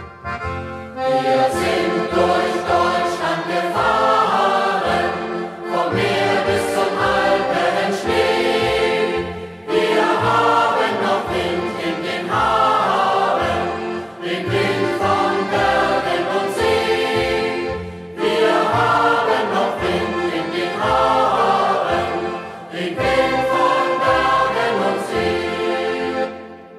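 A youth choir singing a German hiking song (Fahrtenlied) in phrases, with accordion accompaniment.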